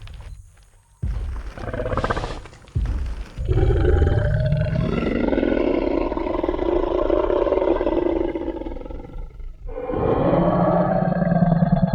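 Designed Tyrannosaurus rex sound effect: a few heavy low thumps of footsteps near the start, then a long, deep roar lasting several seconds, and a second roar beginning near the end.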